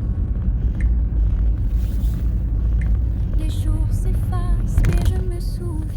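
Car driving, with a steady low rumble of engine and road noise. Faint background music with scattered pitched notes plays over it.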